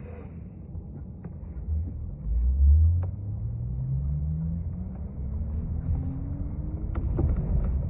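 City transit bus heard from on board, pulling away and accelerating: a low engine rumble with a drivetrain whine that climbs steadily in pitch for several seconds, plus a few sharp rattles.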